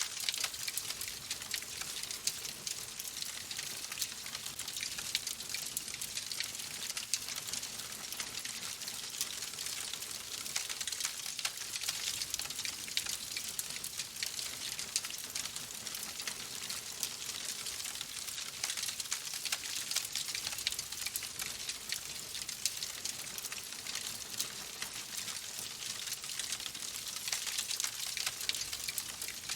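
Fireplace fire crackling steadily, a dense patter of small snaps and pops over a soft hiss.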